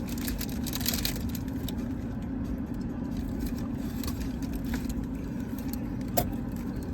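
Steady low hum of an idling car, with a short sharp click about six seconds in.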